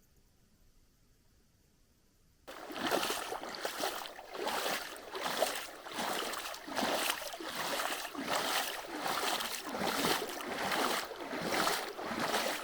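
Footsteps wading through a shallow river, splashing in an even rhythm of about two steps a second. It starts abruptly after a couple of seconds of near silence.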